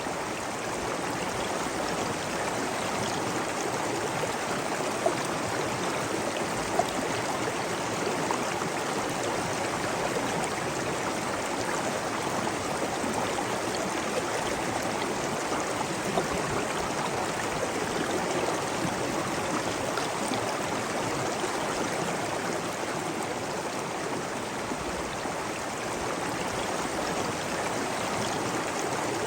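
Steady rush of flowing water, a stream or cascade, with a few brief sharp drips or splashes standing out.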